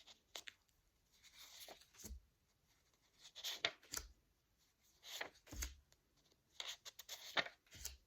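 Faint handling of a pack of flashcards: cards slid and flicked over one after another, about every one and a half seconds, several ending in a soft tap.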